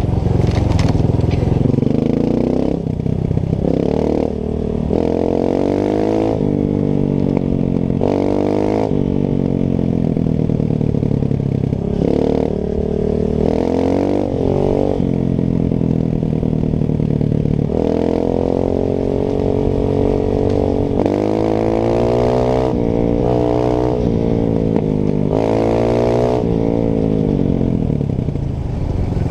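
Honda CRF trail bike's single-cylinder four-stroke engine running continuously under riding load, its pitch climbing and dropping again and again as the rider works the throttle and changes gears.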